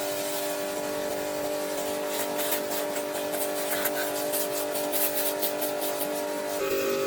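A car engine running steadily, with a rapid ticking over the middle; its tone steps up near the end as it revs.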